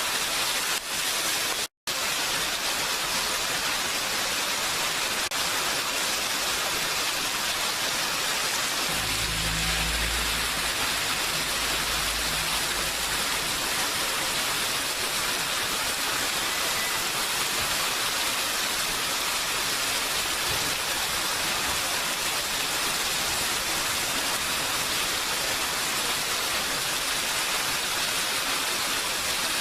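Steady rain hissing, an even wash of noise, cut by a brief dropout to silence a little under two seconds in. A faint low rumble sits under it from about nine to thirteen seconds in.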